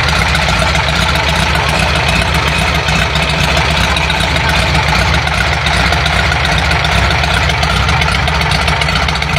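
Volkswagen Beetle air-cooled flat-four engine, with carburetors on open velocity stacks, idling steadily. It runs smooth and even, "like clockwork".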